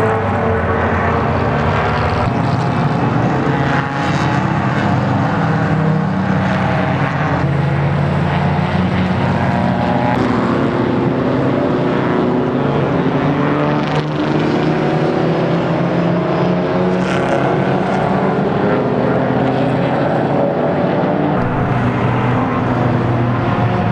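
Race car engines running hard, their pitch rising and falling again and again.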